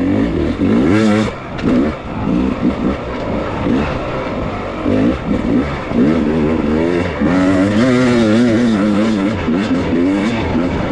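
Beta enduro dirt bike engine revving up and down constantly in short bursts, with a few knocks.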